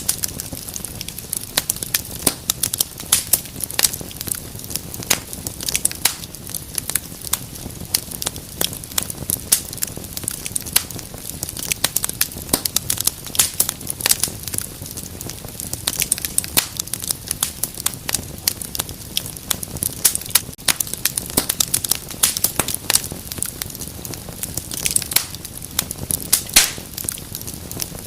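Wood fire burning in a fireplace: dense, irregular crackling and snapping over a steady low rumble of the flames.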